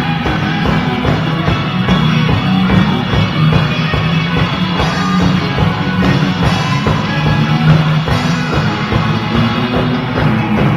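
Rock-and-roll band playing an instrumental passage with a steady drum beat, without vocals.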